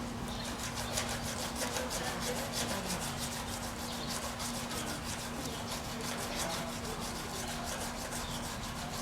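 A rasp filing an Asian elephant's toenail, in quick, even scraping strokes of about four a second, as part of routine nail trimming.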